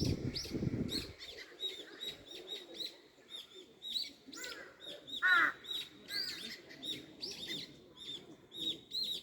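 Several small birds chirping, with many short repeated notes, and a louder call that falls in pitch about five seconds in.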